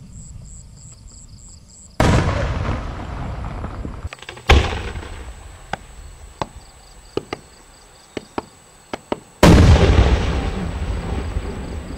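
Aerial firework shells bursting. A loud boom comes about two seconds in, a sharp bang follows about two seconds later, then a scattered string of single cracks, and near the end a big boom that rolls away slowly.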